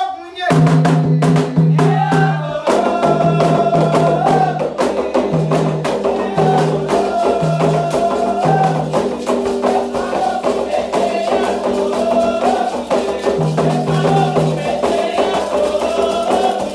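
Candomblé toque for Ogum: a dense, driving drum rhythm, atabaque drums with a clacking bell or stick pattern, kicks in about half a second in under sung call-and-response chant.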